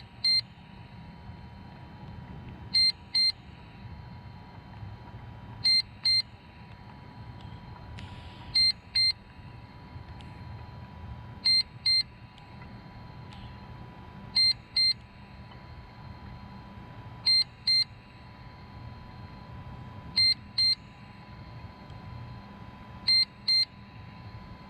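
Electronic beeper sounding short high double beeps, a pair about every three seconds, over a faint steady hum.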